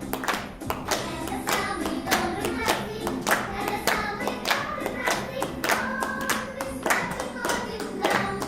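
Hands clapping in a steady rhythm along with a song, with singing over the music.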